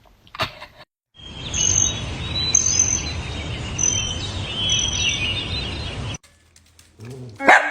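Birds chirping: a handful of short, high calls about a second apart over a steady rushing background noise. Both stop abruptly.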